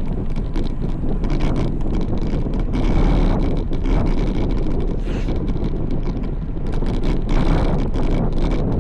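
Wind buffeting the microphone of a moving road bike: a steady low rush broken by frequent short gusty crackles.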